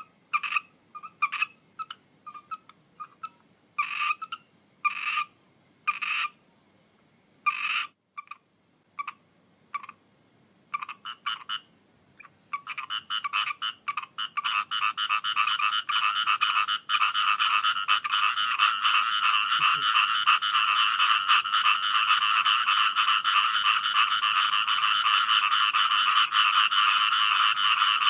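Frogs croaking: separate repeated calls at first, then from about halfway a dense, continuous chorus that carries on to the end.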